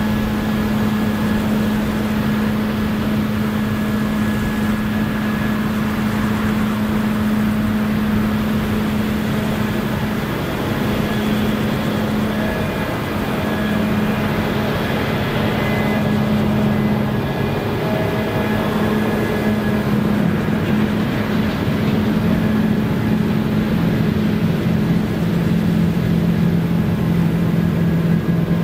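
Claas Lexion combine harvester running steadily while harvesting rye: a constant engine hum over the dense rush of the threshing machinery. The engine note drops a little in pitch about 25 seconds in.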